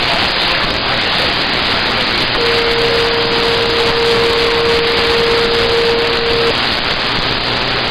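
CB radio receiver hissing with loud, steady band static between transmissions. A steady whistling tone comes in about two seconds in and holds for about four seconds before stopping.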